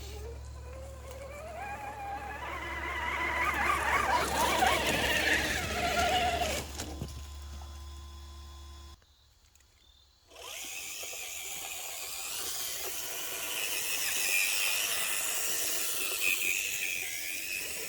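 Axial RC rock crawler's electric motor and geartrain whining under throttle, the pitch climbing and falling as it crawls. About nine seconds in it drops to near silence for a second, then whines again at a higher pitch.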